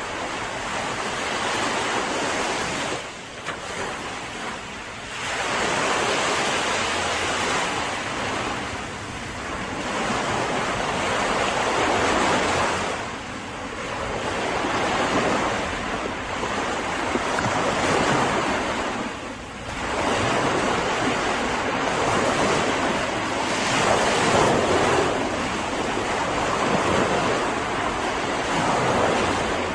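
Mediterranean sea waves breaking and washing on a beach, the surf swelling and easing every several seconds.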